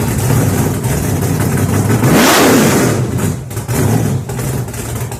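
Car engine running, with one rise and fall in pitch and loudness about two seconds in.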